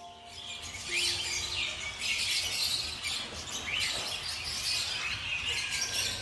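Many small birds chirping at once, a dense chorus of overlapping short calls with no pause.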